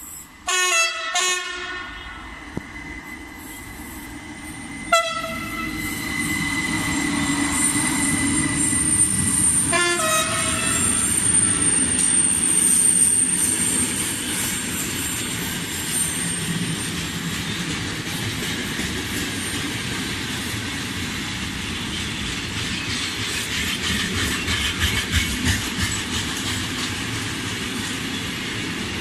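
Train horn sounding a few short blasts at the start, then single short blasts about five and ten seconds in, over the steady rumble of a passing train. A thin high squeal, typical of train wheels, runs through the middle.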